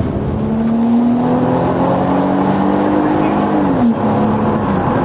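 Motor vehicle engine pulling hard during a pursuit, its pitch climbing slowly for nearly four seconds and then dropping.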